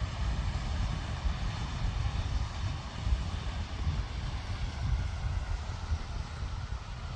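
Wind buffeting the microphone: a steady, gusty low rumble with a hiss above it.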